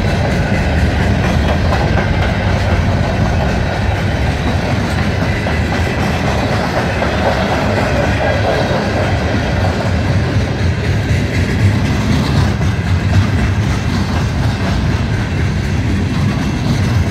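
CN freight train cars, covered hoppers and lumber-loaded flatcars, rolling past close by: a steady, loud noise of steel wheels on rail.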